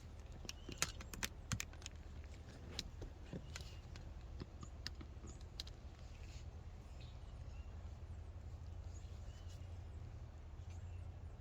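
Light clicks and taps from a metal can and motorcycle fuel tank being handled while tank liner is poured in, mostly in the first half, over a low steady hum.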